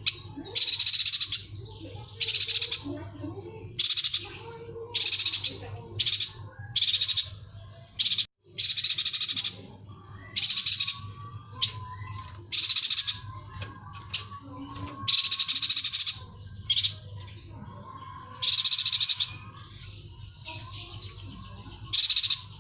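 Yuhina calling over and over: about a dozen short, high, buzzy trilled calls, each under a second, with pauses of one to two seconds between them. The sound drops out for a moment about eight seconds in.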